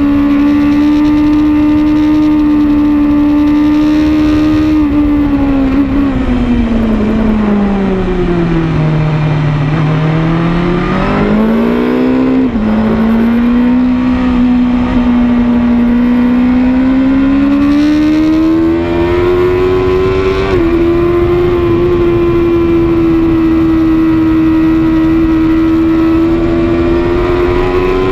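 BMW S1000RR's inline-four engine running hard, heard from the bike with wind rush over it. Its pitch holds high, falls over several seconds as the bike slows, changes abruptly a couple of times, then climbs again under throttle and holds high near the end.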